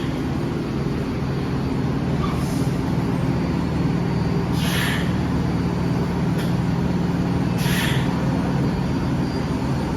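WMATA Metrorail train running at the station with a steady low hum, with several short hisses of air.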